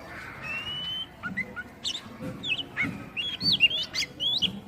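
Oriental magpie-robin (kacer) singing: a short rising whistle, then a fast run of varied sharp whistled notes sweeping up and down.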